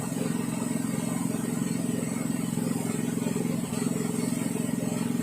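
Yanmar Je-80HE snowblower's small petrol engine running steadily.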